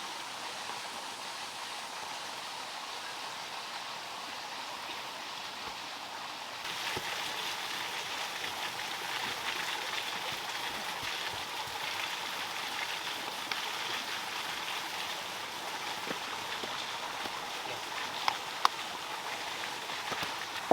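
Steady rush of flowing water, growing louder and brighter about six and a half seconds in. Two sharp clicks near the end.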